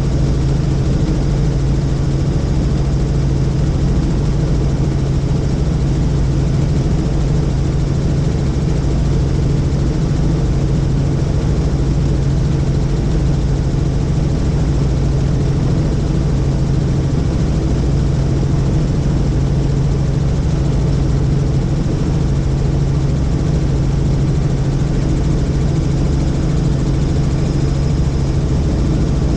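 Helicopter in flight: a steady, loud drone of engine and rotor with a strong low hum, unchanging throughout.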